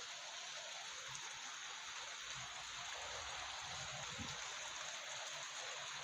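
Heavy rain falling steadily, a continuous even hiss of downpour.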